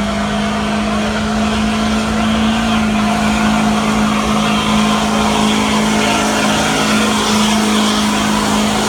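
2012 GMC pickup truck's engine held at high, steady revs under heavy load as it drags a weight sled in a truck pull, with tyre noise.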